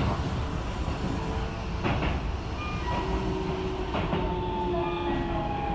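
Keihan 3000 series electric train running, heard from inside the car: steady wheel and rail noise with two knocks about two seconds apart as the wheels cross rail joints. A faint motor whine slowly falls in pitch in the second half.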